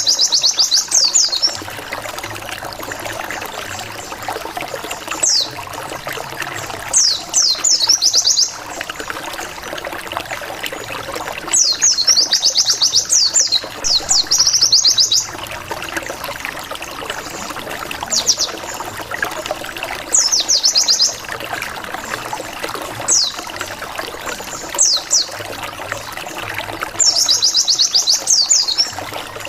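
White-eye (pleci) song, played as a lure to provoke rival birds. It comes as repeated bursts of rapid, high, downward-sweeping 'wit wit wit' notes, about ten phrases with pauses between them, over a steady hiss like running water.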